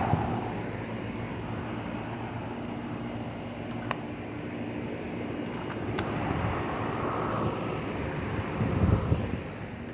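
Outdoor air-conditioning condenser units running in cooling mode: a steady fan and compressor hum, with a few faint clicks and a louder low swell near the end.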